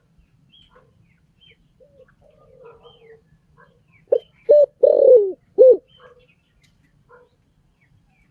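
Spotted dove cooing: one phrase about four seconds in of two short coos, a longer coo that falls in pitch, and a final short coo. Faint high chirps of another small bird are heard throughout.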